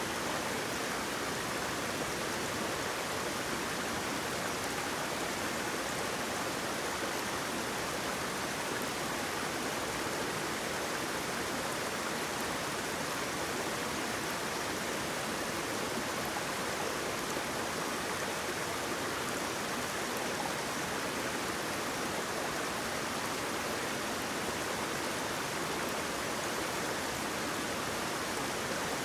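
Waterfall: a steady, even rush of flowing and falling water with no breaks or separate splashes.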